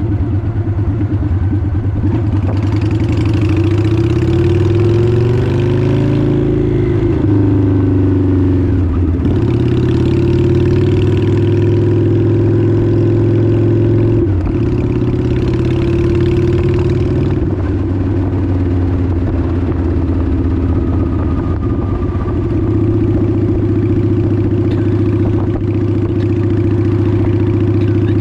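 Honda 750 motorcycle engine running under way. Its pitch climbs from about three to seven seconds in and drops sharply twice, about nine and fourteen seconds in. Wind rushes over the camera microphone in gusts.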